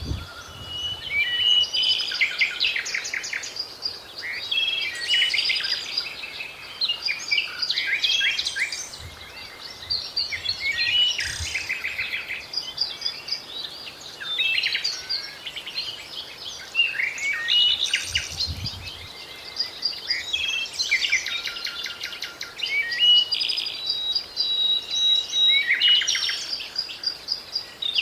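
Several songbirds sing and chirp at once: quick chirps and rapid trills overlap without a break.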